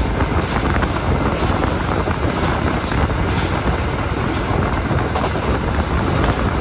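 Stainless-steel passenger train running: a steady rumble and rushing noise, with a short hiss about once a second.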